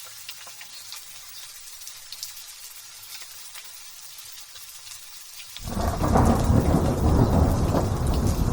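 Light drizzle pattering with scattered fine drop ticks. About two-thirds of the way through, a loud rumble of thunder breaks in suddenly and keeps rolling over the rain.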